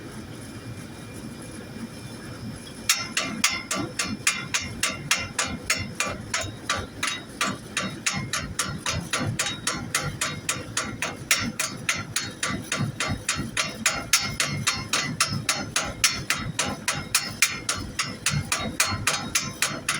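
Rapid steel-on-steel hammer taps, about four a second, starting about three seconds in, each with a bright metallic ring: slag being chipped off fresh welds on steel angle iron.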